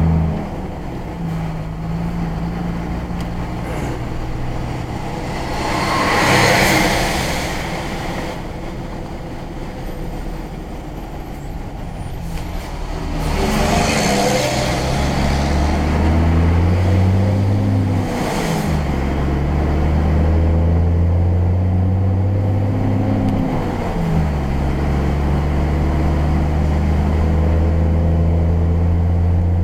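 Car engine heard while driving, pulling up through the gears: its hum rises and drops back at each shift, then settles into a steady cruise. Three brief rushing noises pass over it.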